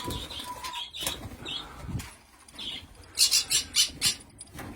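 Birds in an aviary, with faint scattered rustles and clicks, then a quick run of four sharp, high sounds about three seconds in.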